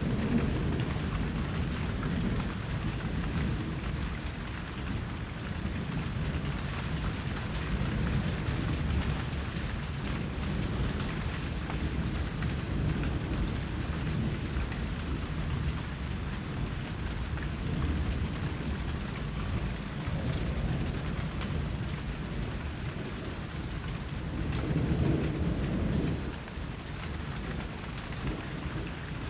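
Steady rain falling, with low rolling thunder rumbling underneath; a heavier rumble swells near the end.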